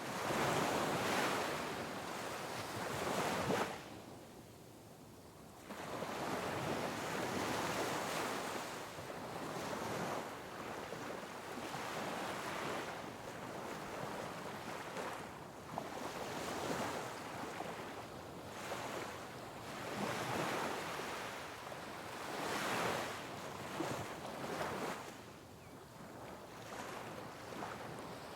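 Sea waves crashing and washing over rocks on a rugged shoreline, surging and falling back every few seconds, with a brief lull about four seconds in.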